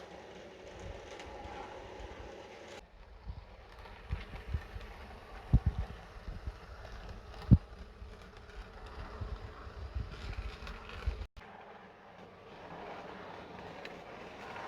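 Hornby Railroad Plus Class 47 model locomotive running along the track, its small electric motor buzzing steadily. In the middle there is a string of sharp low knocks, the loudest about seven and a half seconds in.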